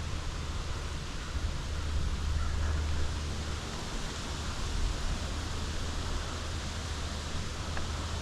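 Strong wind: a low rumble of wind buffeting the microphone under a steady hiss, without pause.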